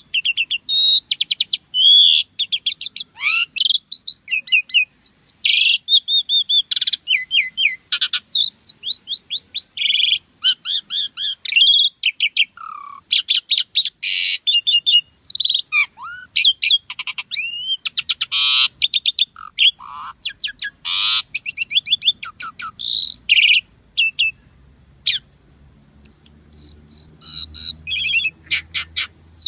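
Pied starling (jalak suren) in full song: a fast, almost unbroken run of varied whistles, slurred notes and chattering phrases, with a short pause about three-quarters of the way through.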